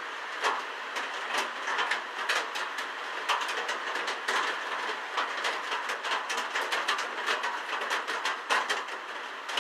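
Heavy rain falling on the shelter: a steady hiss with many irregular, sharp drop hits.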